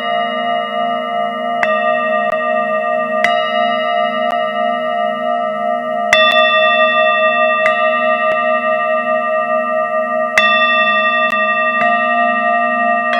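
Singing bowls ringing together in a steady, pulsing hum, struck again about six times, every couple of seconds, each strike adding a bright ring that fades while the deeper tones sustain.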